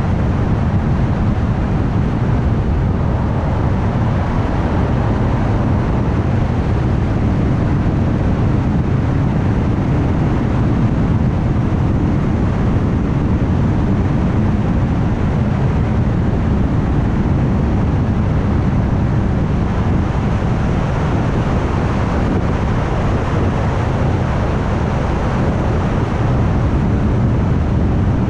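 A car travelling at highway speed: steady tyre and road noise with engine hum, even and unchanging throughout.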